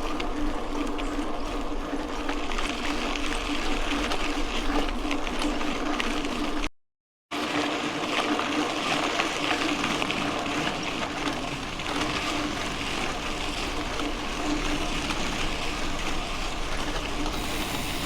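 Mountain bike rolling along a dirt road: steady noise of tyres on the gravel surface with small rattles from the bike and a steady low hum. The sound drops out completely for about half a second roughly seven seconds in.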